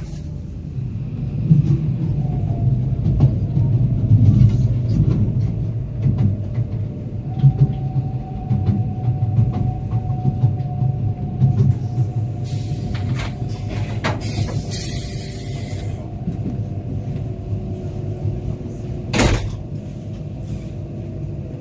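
Cabin of a CR300AF Fuxing high-speed train rolling slowly into a station: a low rumble of wheels on track with scattered clicks over the points, and a steady whine. A hiss comes in around the middle, and one sharp clack sounds near the end.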